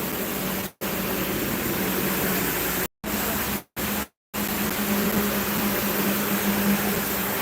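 An engine running steadily with a low hum under a loud, even hiss. The sound cuts out completely four times for short moments around the first few seconds.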